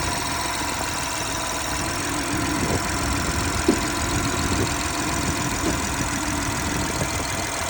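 BMW B58 turbocharged inline-six running at a steady idle with its new Dinan high-flow air filter fitted. A single brief click sounds about halfway through.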